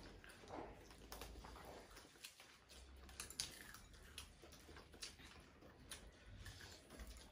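Faint, irregular clicks and smacks of people chewing and eating with their hands.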